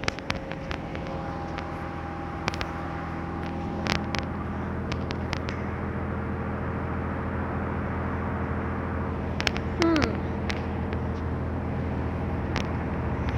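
Steady low mechanical hum of running machinery, with scattered sharp clicks and a short falling squeak about ten seconds in.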